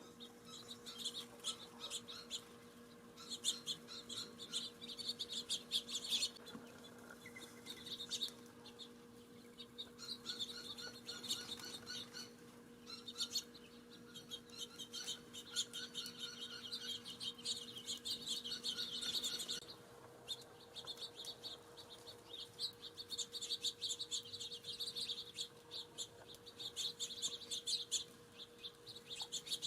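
Small songbirds at a feeder chirping in quick, busy runs of short high chirps. A faint steady hum sits underneath; its lower tone stops about two-thirds of the way through.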